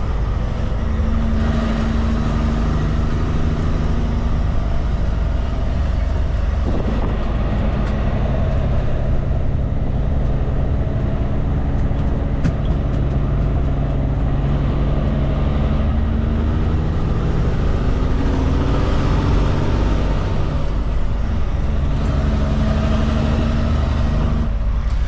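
Kenworth K200 prime mover's diesel engine running under load as the road train drives, heard from inside the cab. The engine note steps and shifts in pitch a few times.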